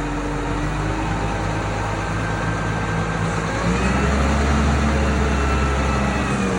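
Crane engine running steadily under load while lifting a heavy tree, its low hum growing louder and heavier about four seconds in.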